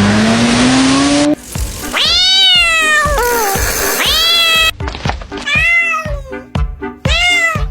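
A motor engine revving upward, cutting off about a second in; then a cat meows four times, the last two over music with a steady beat.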